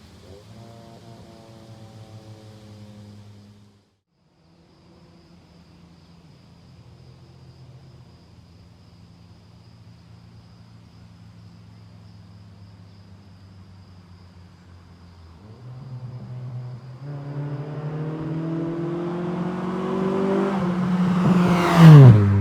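Acura Integra with a Honda B20 four-cylinder, its exhaust running at a steady low note, broken by a short silence about four seconds in. From about two-thirds of the way through it revs up and grows louder with rising pitch. It is loudest as the car passes close near the end, where the pitch drops sharply.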